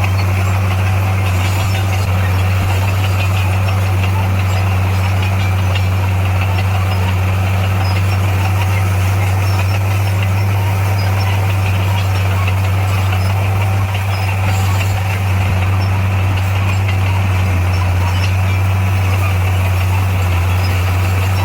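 SDLG motor grader's diesel engine running at a steady speed, a loud, even low drone that does not rise or fall.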